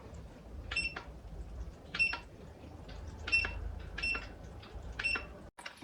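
Rain-cloud humidifier's control buttons being pressed, each press giving a click and a short high beep; five beeps at uneven intervals over a low steady hum.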